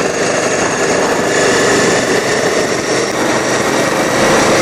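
Racing lawn mower's small engine running steadily.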